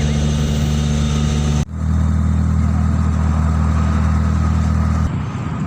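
Car engine hum and road noise while driving, a steady low drone. The sound cuts abruptly about a second and a half in, then changes character again near the end.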